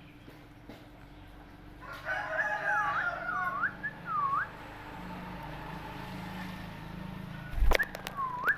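A pet parrot whistling a run of four swooping notes, each dipping in pitch and rising again, then one more after a sharp knock near the end.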